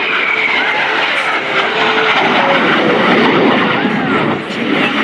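Alpha Jet trainer jets making a fast pass, their twin turbofan engines producing a loud, steady rush of noise with a high whine that falls in pitch as they go by.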